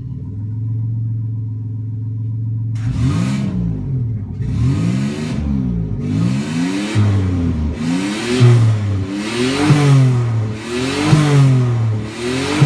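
Nissan Y30 Gloria's VG20 turbo V6 idling steadily, then, about three seconds in, free-revved in about seven quick blips, each rising and falling back, roughly one every second and a half. It revs up cleanly with no odd noises, a sign the engine is healthy.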